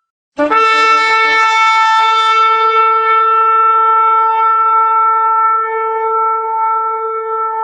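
Shofar blown: a new blast breaks in about half a second in with a short upward scoop in pitch, then settles into one long, steady held note.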